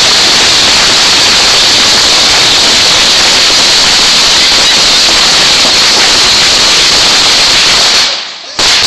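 Fireworks spraying sparks with a loud, steady hiss that dies away about eight seconds in.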